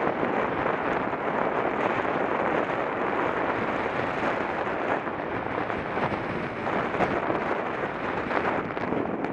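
Wind buffeting a Contour action camera's microphone during a bike ride: a steady, rough rushing noise.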